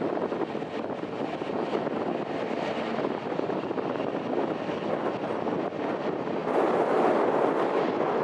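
Jet airliner engines running at a distance, a steady rushing noise mixed with wind buffeting the microphone, growing louder about six and a half seconds in.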